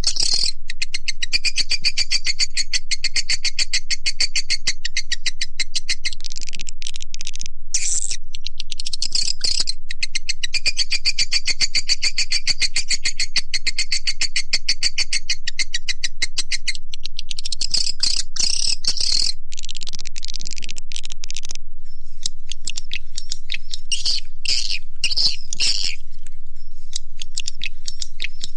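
Edible-nest swiftlet call recording, the kind played as a lure at swiftlet houses: rapid, high-pitched twittering chirp trains. They run densely for long stretches, then break into shorter separate bursts in the second half.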